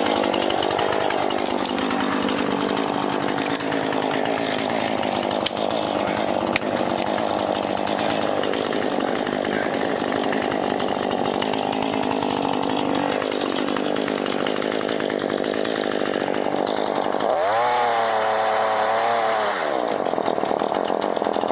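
Chainsaw running and cutting, its engine revving up and down, with a stretch of sustained high revving near the end.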